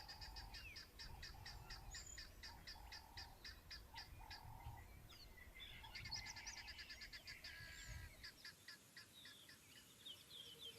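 Faint wild bird calls: a rapid, evenly repeated high chirp at about four a second for the first half, with other chirps and whistles over it.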